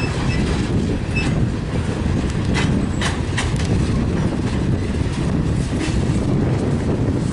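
Freight train of tank cars rolling past: a steady low rumble of wheels on rail, with a few sharp clacks from the wheels, most of them about three seconds in.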